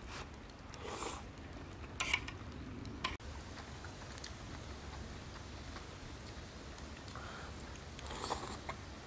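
A person eating ramen noodles: a few short slurping and chewing noises about one, two and three seconds in and again near the end, over a low steady background.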